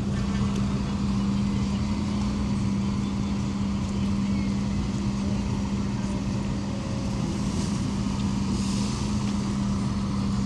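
A large engine running steadily: a constant low hum over a haze of street and traffic noise.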